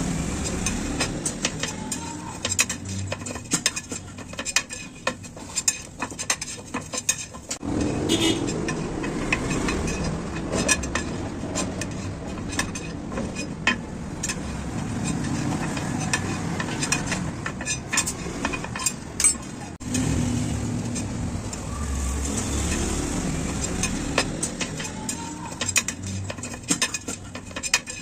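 Irregular metallic clinks and taps from hand tools working a motorcycle's spoked wheel and rim, over a steady low background of street noise.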